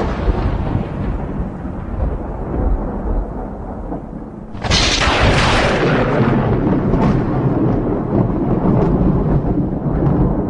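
Thunderstorm recording: a thunderclap rumbling away over the first few seconds, then a sudden loud crack of thunder about four and a half seconds in that rolls on and slowly fades, over a steady deep rumble.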